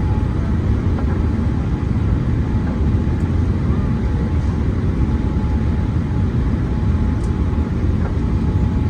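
Steady cabin noise inside a Boeing 787-8 airliner: a continuous deep rumble of engines and airflow, heavy in the low end, with no sudden events.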